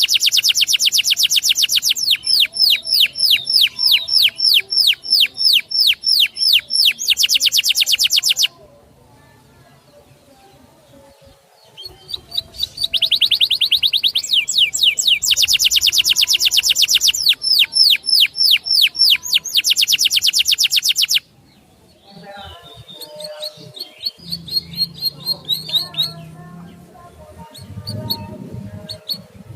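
A small songbird singing long, fast trills of repeated high notes in two runs of several seconds each, with a pause between them. Softer, more varied chirps follow near the end.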